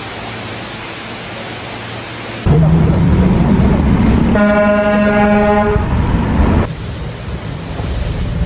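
A steady hiss, then a loud low rumble of vehicle noise in which a car horn sounds once, held for about a second and a half, before the rumble drops to a quieter level.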